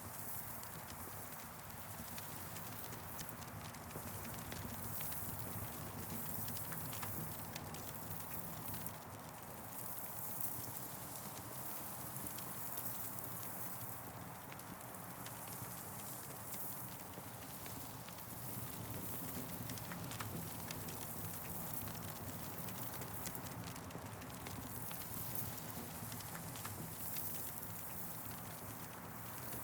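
Campfire burning, with frequent small crackles and pops over a steady hiss, and wind in the trees swelling and fading every few seconds.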